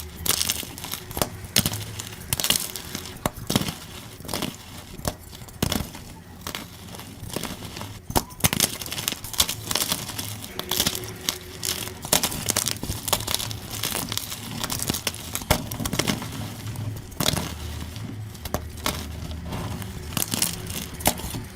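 Gym chalk being crushed, sped up: a dense, continuous run of crunching and crackling with many sharp crisp snaps.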